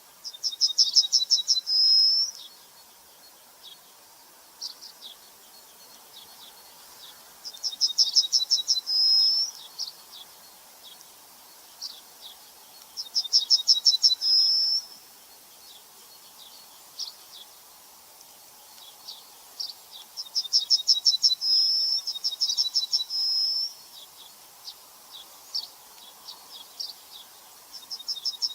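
Songbird singing the same phrase over and over, about every six seconds: a fast run of high chirps ending in a short held whistle. Scattered single chirps fall in between.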